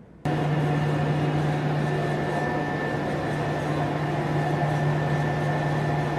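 Steady engine noise with a constant low hum and a high whine, cutting in suddenly just after the start and holding level throughout.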